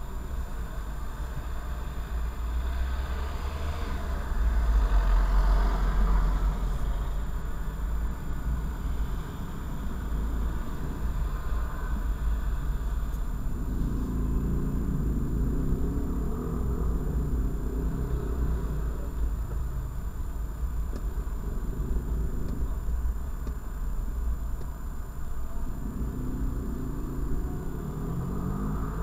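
Steady low rumble of a car engine idling, heard from inside the cabin through a dash cam's microphone. The engine noise swells about four seconds in, again around the middle, and near the end.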